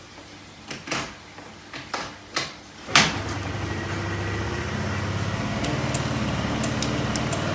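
Yamaha Majesty 125 scooter's carbureted single-cylinder four-stroke engine being started: a few brief starter bursts, then it catches with a loud burst about three seconds in and settles into a steady idle.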